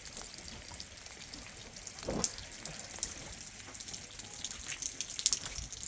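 Water running and splashing, as at a tap or sink, with scattered small clicks and drips and a louder splash about two seconds in.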